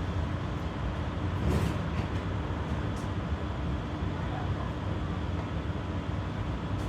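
Steady running noise heard inside a moving low-floor tram (type GTZO): a low rumble of wheels on rails with a faint steady hum, and a couple of light clicks.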